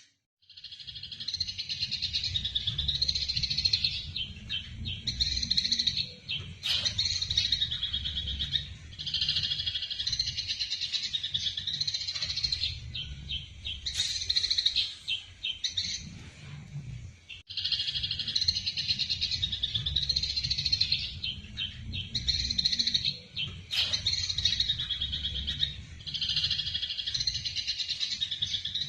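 Eurasian tree sparrows giving rapid, harsh fighting chatter in dense overlapping bouts, with a short break a little past halfway, over a steady low rumble.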